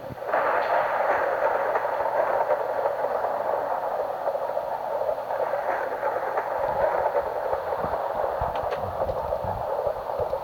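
Steady, even rushing noise of a thunderstorm, typical of heavy rain or wind, starting abruptly just after the beginning and holding steady.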